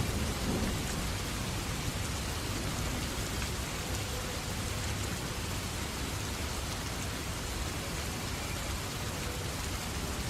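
Steady heavy rain falling, with the tail of a thunder rumble fading away in the first second.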